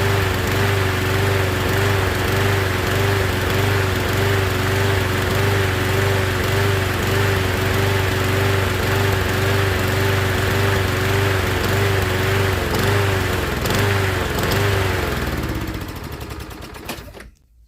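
Toro Recycler walk-behind lawnmower's single-cylinder engine running with a regular rise and fall in speed: surging, which the mechanic takes to need the carburettor off. Near the end it stops and winds down.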